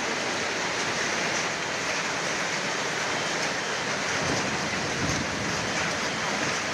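Hailstorm: hailstones and rain pelting down in a dense, steady patter of countless small impacts.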